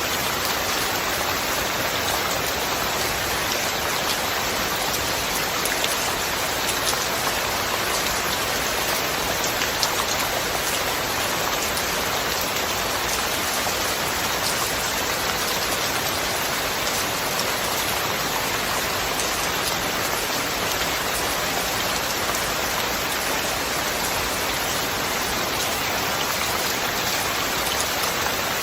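Steady, dense rain falling: an even hiss sprinkled with many small drop taps, with no thunder.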